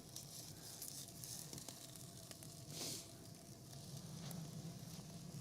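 Flour-dusted lamb shanks searing in a hot pot, a faint steady sizzle, with a brief louder hiss about three seconds in.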